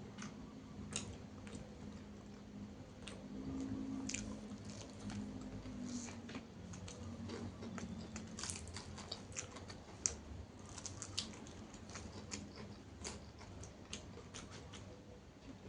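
Close-up chewing and crunching of a lalapan meal of raw vegetables and fried fish, with irregular sharp, crisp bites and mouth clicks.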